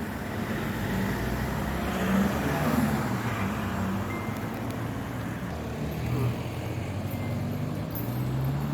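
Road traffic: a car engine running, with steady road noise.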